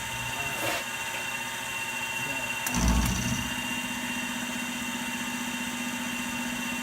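Milling machine motor switched on about three seconds in, starting with a low thump and then running with a steady hum.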